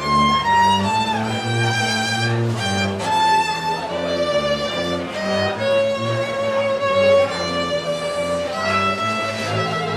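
String music recorded live: a violin playing a melody over a lower string accompaniment that repeats its bass notes.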